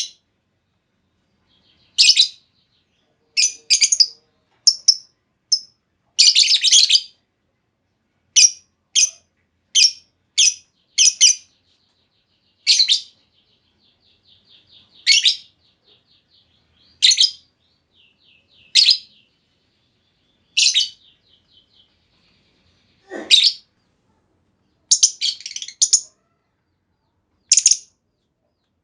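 Female lovebird calling: short, sharp, shrill chirps, some single and some in quick clusters, with irregular pauses. A faint rapid trill runs between the calls through the middle.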